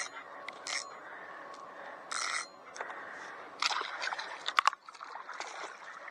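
Water splashing and sloshing around a fishing kayak, with short splashes and a run of knocks and clicks from handling gear; the loudest is a sharp knock about four and a half seconds in.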